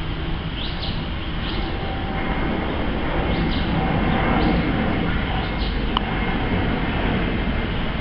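Jet airliner passing overhead: a steady low rumble that builds to its loudest about halfway through. Birds chirp a few times over it.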